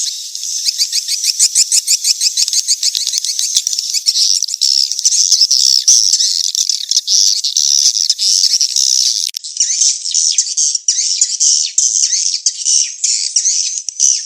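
Recorded swiftlet calls: a dense, fast, high-pitched twittering of many chirps. This is a 'mating chase' lure call, played to draw swiftlets into a nesting house.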